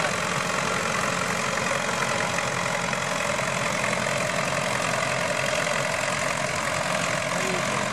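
Antique farm tractor engine running steadily under load while pulling the weighted sled.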